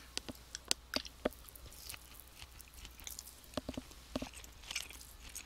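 A person chewing a mouthful of cooked beef sirloin strip, with many small sharp clicks and crackles, some from the clear plastic meat tray being handled.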